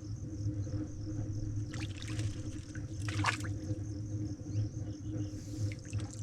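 Small creek water trickling, with insects trilling steadily high above it. A few brief splashy or rustling noises stand out about 2 and 3 seconds in.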